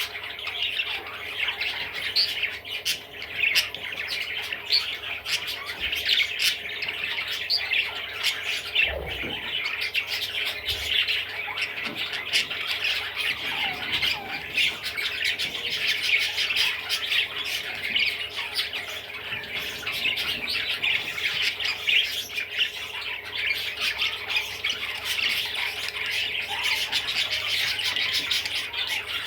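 Budgerigar chattering and warbling without a break, a steady stream of squawks, chirps and clicks.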